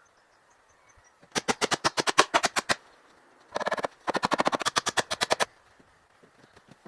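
Rapid knocking in two runs of sharp, evenly spaced strikes, about ten a second. The first run is short; the second starts about three and a half seconds in and lasts about two seconds.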